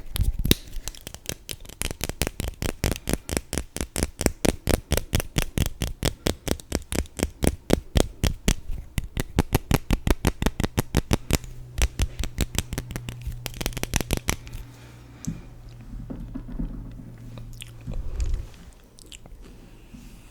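Rapid, even taps close to the microphone, about four to five a second, stopping about two thirds of the way through, followed by quieter scattered rustles.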